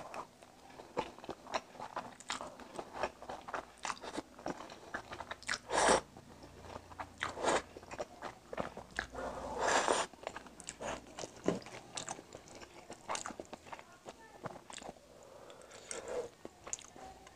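Close-up chewing and slurping of noodles, with many wet mouth clicks and two louder stretches about six and ten seconds in.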